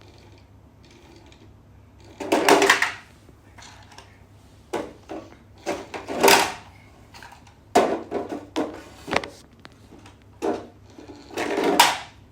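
Toy truck being handled and knocked about on a hard surface: irregular knocks and clatters, with three longer rattling bursts about two, six and eleven and a half seconds in.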